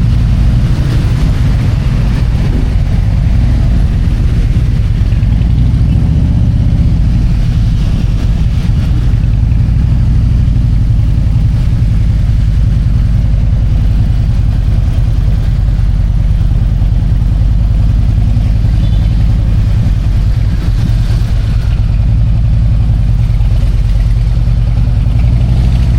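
Harley-Davidson Road King's V-twin engine running steadily at low speed, a constant low throb.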